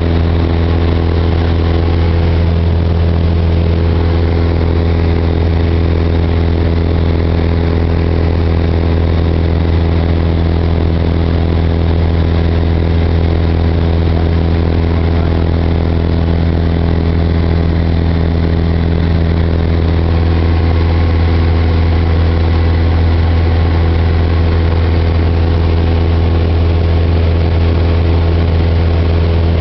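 A Cessna 172's piston engine and propeller running at a steady, even speed, loud and unchanging throughout, heard from inside the cabin.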